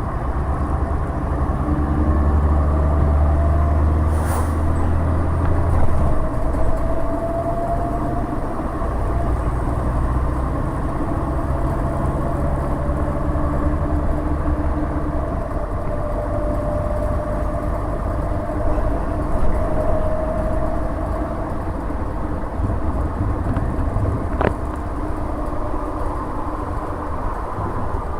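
Inside a city bus under way: the Mercedes-Benz OM 906LA six-cylinder turbodiesel and drivetrain running with a heavy low rumble, loudest a few seconds in as the bus pulls away, over steady road noise and a faint whine sliding up in pitch. Two sharp clicks, one a few seconds in and one near the end.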